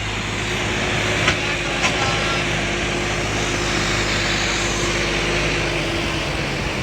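Tractor engine running steadily at a constant low idle-like note, with a couple of light clicks about a second in.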